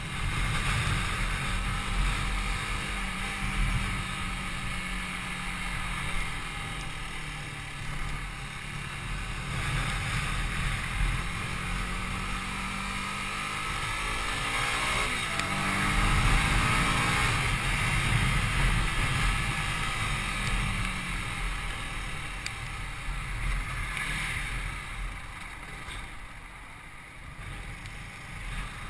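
Yamaha YZF-R125's 125cc single-cylinder four-stroke engine running under way, mixed with steady wind noise. The engine pitch dips and climbs again about halfway through, and the sound gets quieter near the end.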